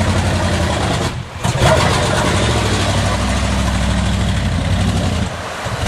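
GMC truck's 400 small-block gasoline V8 running at a steady low engine speed while mudding; the sound drops out briefly a little over a second in, then picks up again, and fades somewhat near the end.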